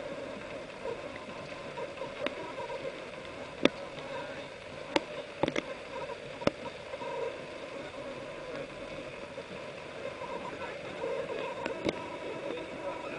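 Pickup truck driving in the rain, a steady wash of water and road noise with a few sharp knocks.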